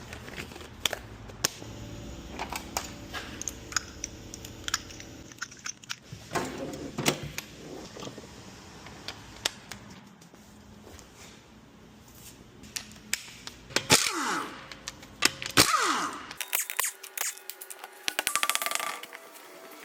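Scattered metallic clicks, knocks and clatter of tools and parts being handled during tyre work, with a fast even run of ticks near the end.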